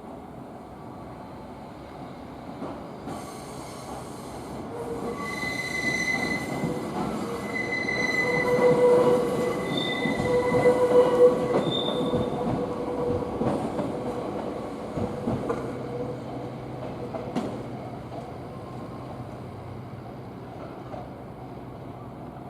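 Hokuriku Railroad 7100 series electric train pulling out and running past on the rails. Its wheels squeal in broken high tones as the sound builds to a peak in the middle, then it fades to a low rumble as it draws away.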